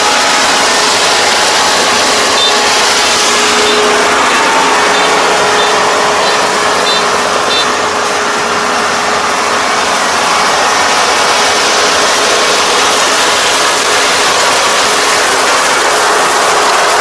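Farm machine running steadily: a loud, constant mechanical noise with a steady engine hum underneath.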